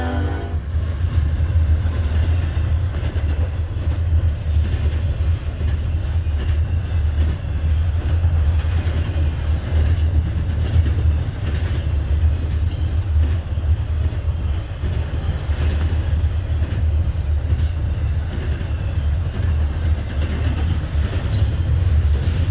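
A train rolling past, a steady low rumble with scattered clicks and clanks from the wheels and cars. The tail of a horn blast cuts off about half a second in.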